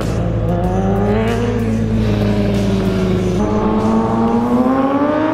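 BMW E90 M3's V8 engine, fitted with an iPE exhaust, running under light throttle as the car drives slowly. The pitch sags a little, then climbs steadily from about three seconds in as the revs rise.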